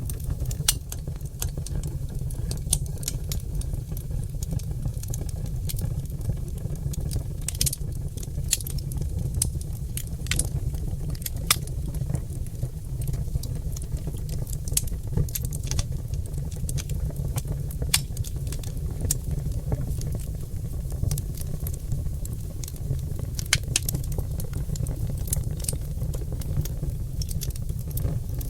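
Oak logs burning in a fireplace, crackling with many irregular sharp pops over a steady low rumble.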